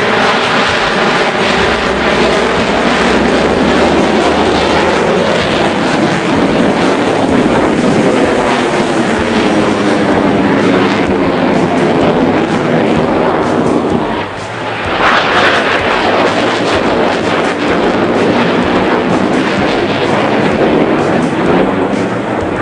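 Jet aircraft of the Navy's Blue Angels passing low overhead, loud and continuous, with a sweeping shift in the sound as they go by. About 14 s in it dips briefly, then a second pass rises just as loud.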